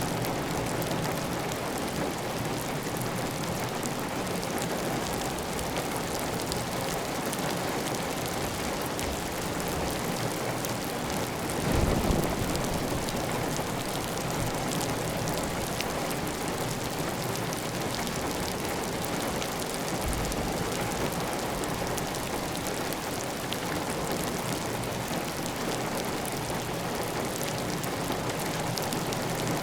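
Heavy, steady rain drumming on a clay tile roof, with water running off the roof edge. About twelve seconds in there is a brief louder, low thump, and a fainter one later.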